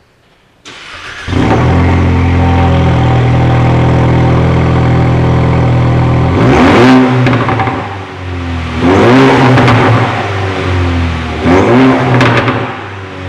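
Ford Mustang EcoBoost's turbocharged four-cylinder, through a custom dual exhaust, starting about a second in and settling into a steady, deep idle. It is then revved three times, with the popping crackle of a "popcorn" exhaust as the revs fall.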